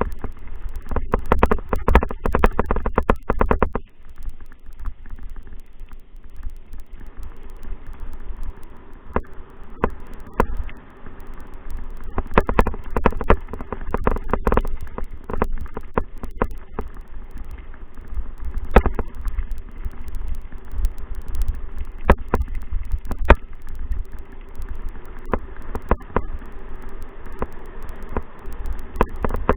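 Wind buffeting a moving camera's microphone with a low rumble, broken by frequent sharp knocks and rattles.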